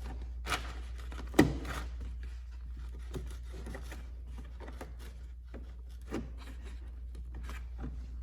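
Plastic speaker grille being worked loose from a BMW E39 M5's Alcantara-covered parcel shelf: scraping and rubbing of plastic against the shelf, with a sharp snap about one and a half seconds in as a clip lets go and a few lighter clicks later.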